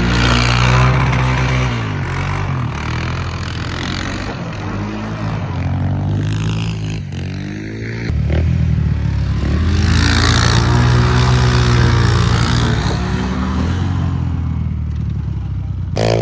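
Small off-road vehicle engine running and being revved up and eased off several times, its pitch rising and falling.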